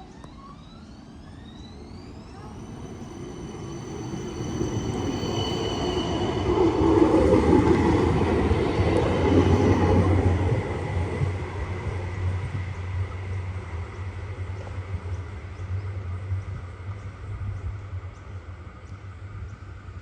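CAF Urbos 100 light rail tram pulling away: its traction motors whine, rising in pitch over the first few seconds as it accelerates, then hold a steady tone. The tram's running noise swells to its loudest about seven to ten seconds in and then fades as it moves off.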